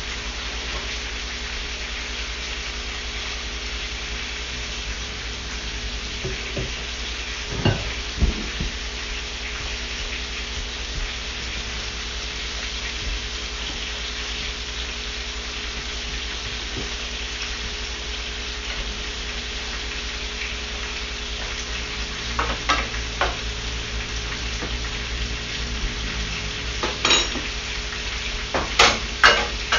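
Flour-dredged hamburger steaks frying in a skillet, a steady sizzle throughout. A spatula knocks and scrapes in the pan a few times, mostly near the end.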